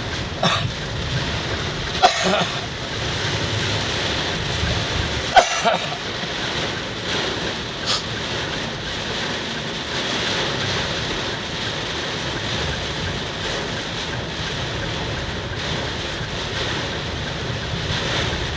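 Heavy rain falling in strong wind that buffets the microphone: a steady rushing noise, broken by a few short sharp sounds about two and five seconds in.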